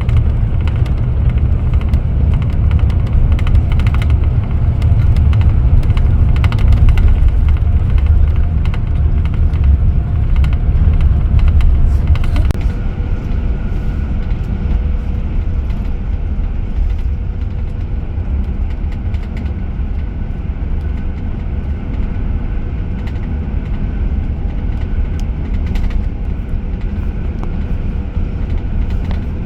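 Scania K410IB coach on the move, heard from inside: a steady low rumble of engine and road. It is louder for about the first twelve seconds, then settles slightly quieter.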